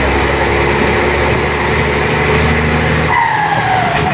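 Mercedes-Benz 1721 bus's turbo-diesel engine running steadily, its turbo fitted with a 'pente' whistle modification. About three seconds in, the engine's low note drops away and the turbo's whistle falls in pitch as it spools down.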